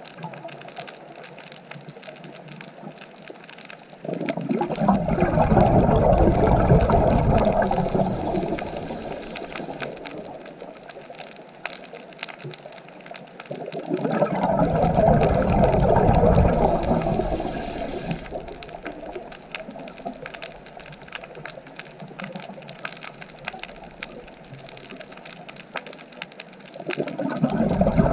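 Underwater sound of a scuba diver's exhaled bubbles: three long bursts of rushing, bubbling noise roughly ten seconds apart, with faint crackling in between.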